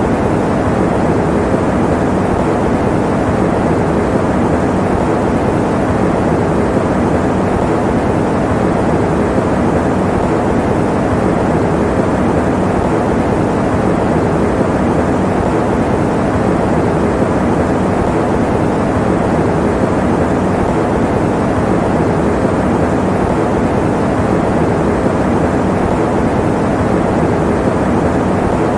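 Fan running steadily as white noise: an even, unchanging rush, deep and full rather than hissy.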